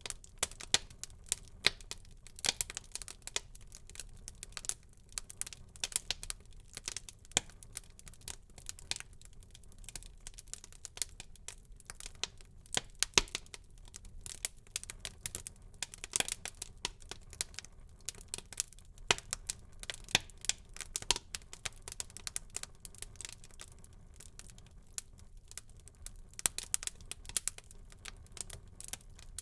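Wood fire burning in a fireplace, crackling and popping: dense, irregular sharp snaps over a low steady hiss.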